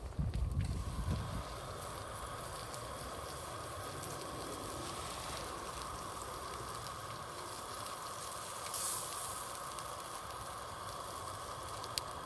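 Wood fire in a campfire stand giving a steady hiss and sizzle with sparse crackles, one brief flare of hiss about nine seconds in and a sharp pop near the end. A few low thumps of handling in the first second or so.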